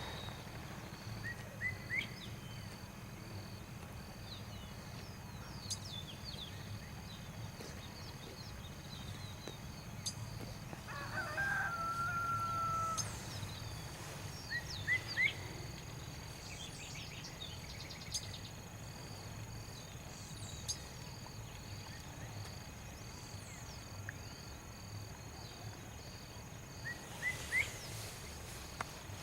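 Rural outdoor ambience: a rooster crows once, about eleven seconds in, over scattered chirps of small birds and a steady high insect drone.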